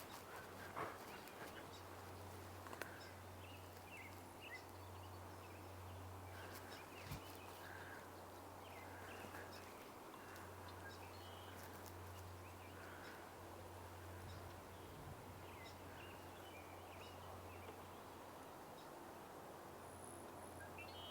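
Faint, scattered chirps and short calls from small songbirds, over a steady low hum, with a few soft clicks near the start.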